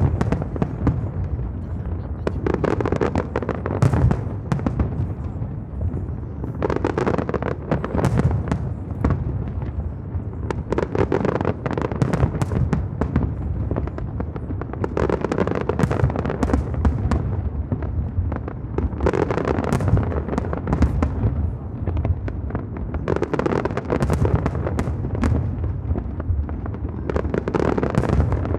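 Fireworks display exploding without a break: deep booms of aerial shells mixed with dense crackling, with louder clusters of bursts every few seconds.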